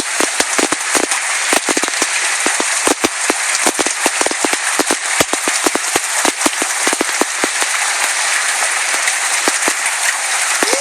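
Hailstones pelting hard surfaces in a dense, irregular volley of sharp cracks and knocks over a steady hiss of heavy rain.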